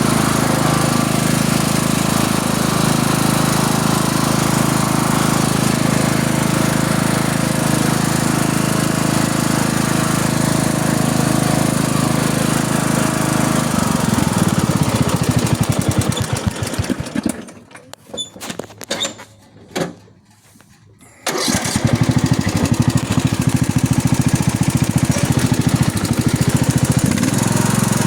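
Riding lawn tractor engine running steadily. About halfway through it slows and the sound drops away almost to nothing for a few seconds, then the engine comes back at full speed.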